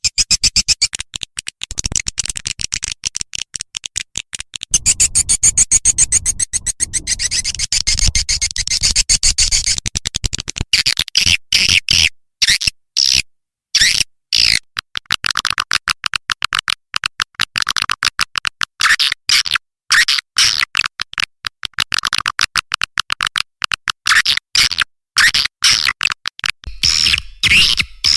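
Swiftlet calling sound used to lure swiftlets: a loud, dense, rapid chattering of high clicks and twitters, then separate high chirps that drop in pitch, roughly one a second.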